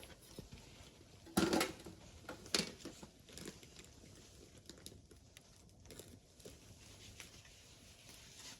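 Plastic packaging being handled and crinkled, irregular rustles with a louder crinkle about a second and a half in and another near three seconds.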